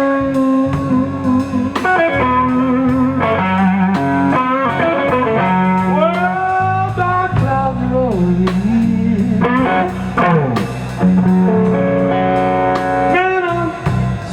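Slow blues band playing: electric guitar lead fills with string bends over bass and drums, no singing.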